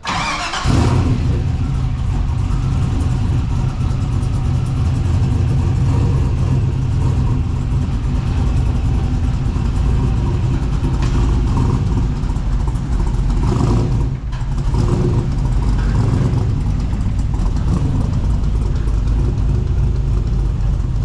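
Car engine running loud with a deep, steady exhaust rumble, dipping briefly about two-thirds of the way through.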